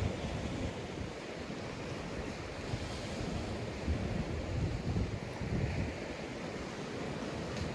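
Sea surf washing steadily onto a sandy beach, with wind buffeting the microphone in uneven low rumbles.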